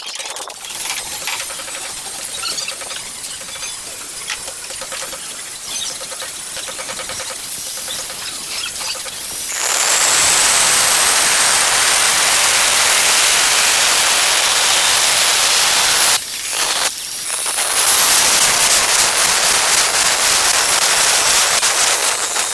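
Angle grinder cutting ceramic tile: a loud, gritty hiss with a high motor whine that starts about ten seconds in, breaks off briefly around sixteen seconds, then picks up again. Quieter noise comes before it.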